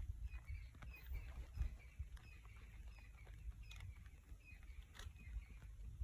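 A bird chirping in quick repeated short high notes, faint, over a low rumble, with a few soft clicks.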